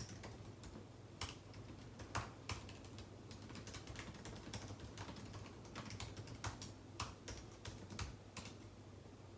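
Typing on a computer keyboard: irregular keystroke clicks at an uneven pace that stop near the end, over a steady low hum.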